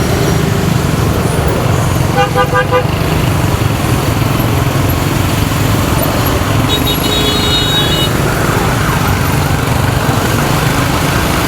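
Motorcycle engine and street traffic noise running steadily, with a quick series of short horn toots about two seconds in and a higher-pitched beeping horn around seven seconds in.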